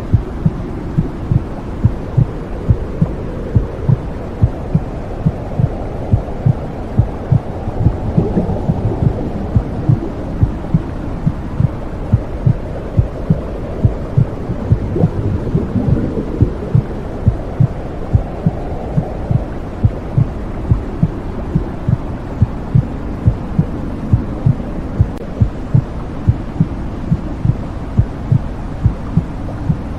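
Womb sound: a low, muffled rushing noise with a steady heartbeat pulsing through it in an even rhythm, the rushing swelling a little now and then.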